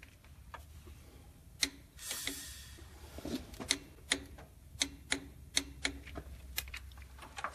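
Irregular light metallic clicks and taps, a few with a short ring, from a new timing chain and gear set being worked on the camshaft of a Ford 302 V8, with a short hiss about two seconds in.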